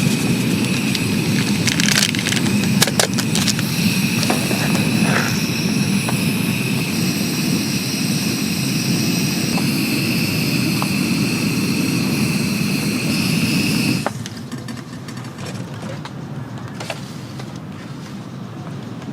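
A steady rushing roar with a thin high whine over it and a few light clicks, which cuts off abruptly about two-thirds of the way through and leaves a quieter, softer background.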